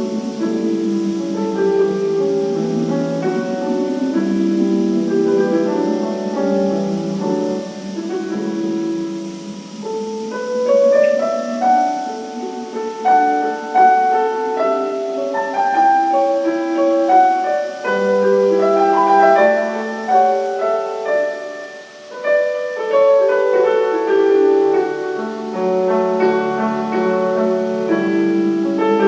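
Piano music: a flowing run of many quick notes, thinning out for a moment about two-thirds through before picking up again.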